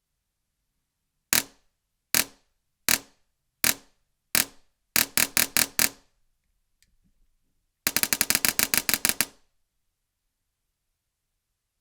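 Airsoft replica powered by a GATE PULSAR D dual-solenoid HPA engine firing. It fires five single shots about three-quarters of a second apart, then a quick run of about six shots, then a full-auto burst of about fifteen shots at roughly ten a second.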